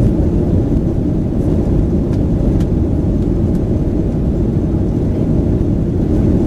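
Boeing 737-900 cabin noise in flight: the steady low rumble of the CFM56 engines and the airflow, heard from inside the rear cabin.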